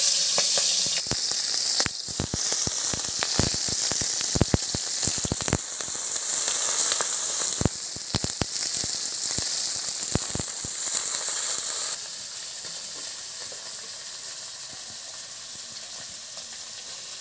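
Food sizzling in hot oil in a steel wok over a wood-fired clay stove. A steady sizzle carries many sharp pops and clicks through roughly the first eleven seconds, then settles to a quieter, even sizzle.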